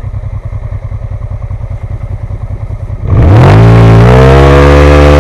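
Motorcycle engine idling with an even, pulsing beat, then revved hard about three seconds in, rising quickly and held at high revs, very loud.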